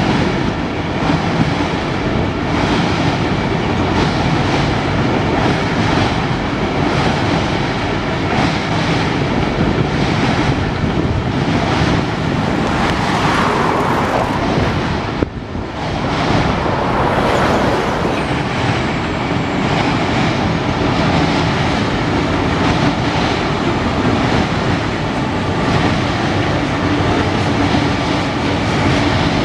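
Canadian Pacific freight train rolling past, steel wheels rumbling and clicking over the rail joints, with a steady low engine drone. There is a brief break about halfway through.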